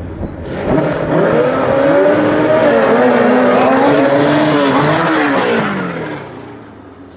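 Racing lawn mower engines revving up hard off the start line. The pitch climbs and holds high and loud for several seconds, then slides down and fades as the mowers pull away.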